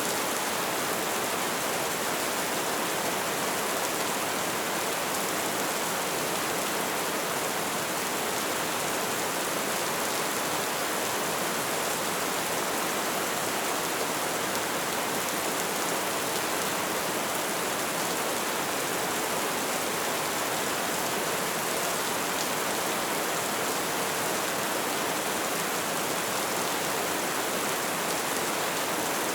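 Light rain falling steadily, a continuous even patter and hiss without let-up.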